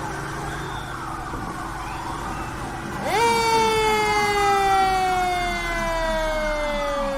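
Fire truck siren winding up sharply about three seconds in, then slowly falling in pitch, over the rumble of the truck on the road.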